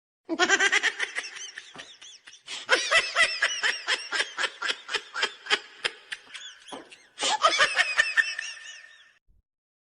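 A laughter sound effect: someone laughing hard in quick, high-pitched pulses of several a second, in three bouts broken by short pauses, fading out near the end.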